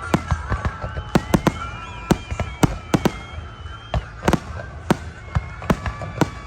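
Fireworks going off: an irregular string of sharp bangs, about three a second, over a low rumble, with thin wavering whistles above them.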